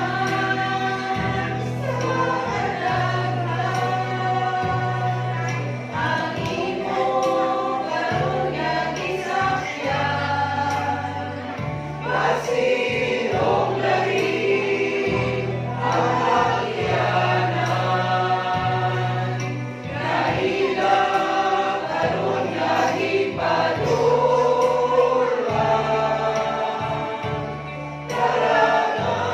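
A church choir singing a gospel song in several voices over an accompaniment with sustained bass notes that change every second or two, with a brief dip in loudness about 28 seconds in.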